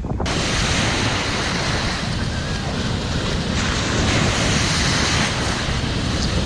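Breaking surf: rushing whitewater around the camera, starting suddenly about a quarter second in as a loud, steady hiss that spans low to high pitches, with wind buffeting the microphone.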